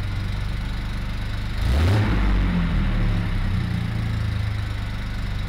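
1973 Triumph TR6's straight-six engine idling, revved once briefly about two seconds in and then settling back to a steady idle. The owner says the car has a little exhaust leak somewhere.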